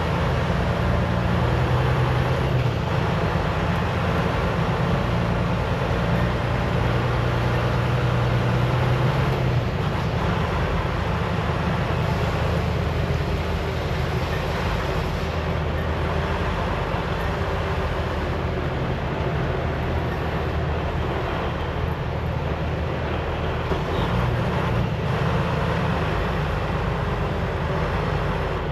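Semi-truck diesel engine running steadily, a low hum that shifts a little in pitch now and then.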